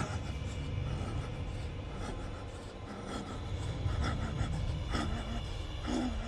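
A man's laboured, wheezing breaths over a steady low rumble, a few short pitched wheezes spaced about a second apart near the end.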